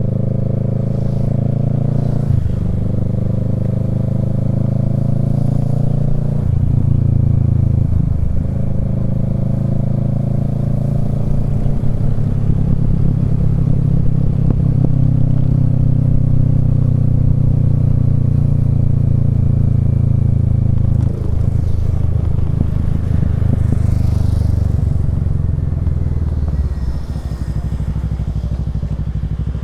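Kawasaki Z650's parallel-twin engine through a Yoshimura Alpha exhaust, pulling up through the gears: the pitch climbs and breaks at gear changes about two, six and eight seconds in, then holds at fairly steady revs. The revs drop briefly a little over two-thirds of the way through and settle lower near the end.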